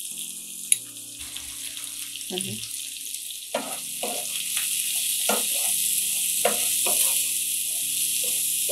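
Potatoes, chopped onion and ground spices sizzling as they fry in oil in a pan. A spatula stirs them in short strokes from about the middle on.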